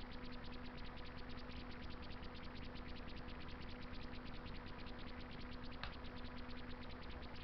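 Wood fire crackling in a Russian masonry stove: a dense, fast run of small crackles with one sharper pop about six seconds in, over a steady low hum.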